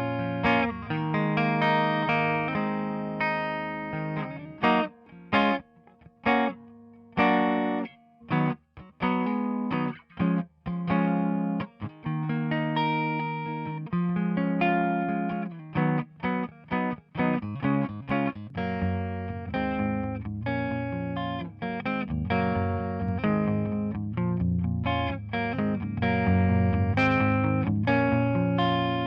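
Electric guitar playing chords with a light distortion, run through the Overloud TapeDesk tape-emulation plugin. Between about four and twelve seconds in, the chords are cut short, with brief gaps between them; after that the playing rings on steadily.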